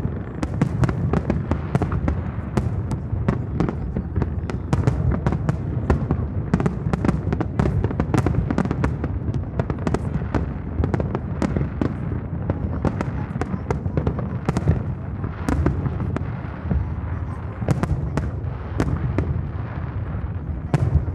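Aerial fireworks going off in quick succession: a dense run of sharp bangs and crackles over a continuous low rumble of shell bursts echoing across the harbour.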